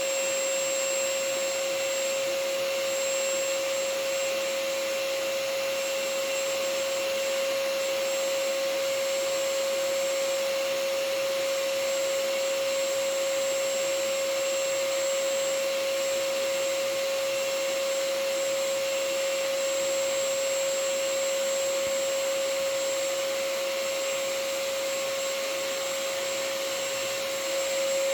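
Vacuum cleaner running steadily: an even rushing hiss with a constant whining tone through it.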